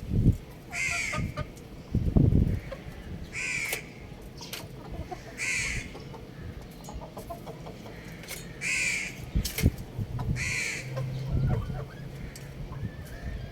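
Harsh bird calls, about six short ones spaced one to three seconds apart, each with a falling arc of pitch, over a steady background.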